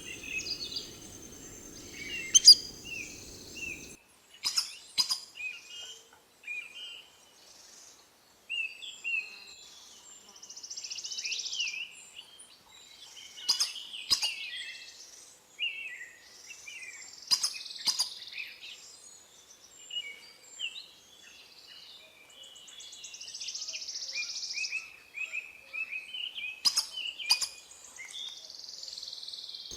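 Birds calling with many short, high chirps, together with several sharp clicks that come in pairs and small groups.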